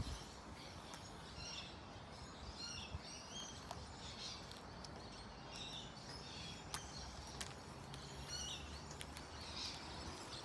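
Quiet outdoor ambience with small birds chirping now and then, and a few light clicks and taps.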